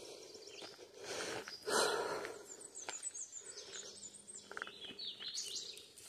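Small bird chirping a quick run of high notes about three seconds in, over outdoor background noise. A louder, brief noisy scuff comes about two seconds in.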